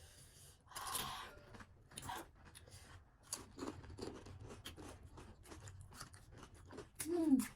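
Close-miked crunching and chewing of panipuri: crisp puri shells cracking between the teeth in a run of sharp crackles, with a denser crunch about a second in. A short vocal sound comes near the end.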